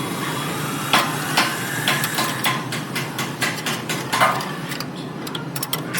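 Irregular metal knocks, taps and clinks, about a dozen, starting about a second in and coming faster near the end, over a steady low hum: hand-tool work on a car's steering rack and tie rod.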